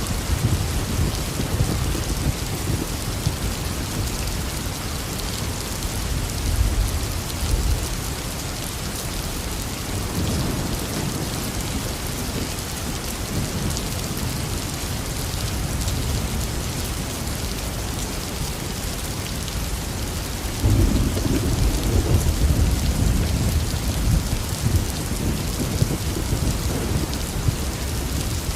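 Heavy rain falling steadily on surfaces, with thunder rumbling low underneath; a louder roll of thunder starts suddenly about two-thirds of the way through.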